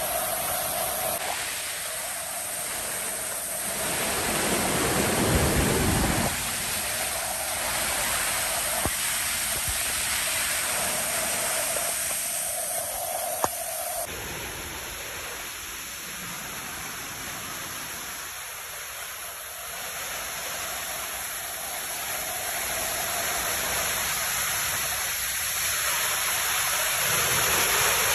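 Waterfall in spate after a flood, a steady rush of falling water. A short low rumble comes about five seconds in, and there is a sharp click about halfway through.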